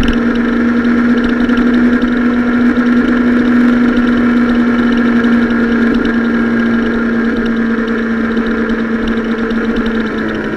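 Sport motorcycle engine running at steady revs while riding, heard from a camera mounted on the bike, with wind rushing over it; the engine note holds one steady pitch and fades slightly toward the end.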